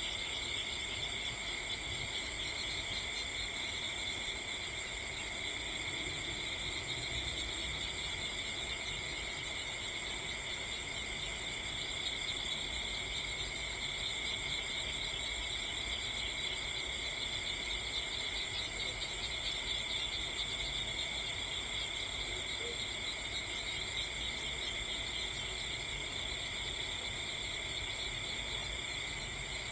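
Steady chorus of crickets trilling without pause, several pitches at once.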